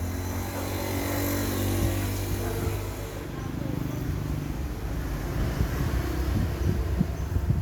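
A motor running with a steady low hum, with a few knocks near the end.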